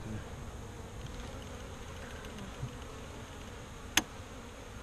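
Honeybees buzzing steadily around an opened hive, with one sharp click about four seconds in.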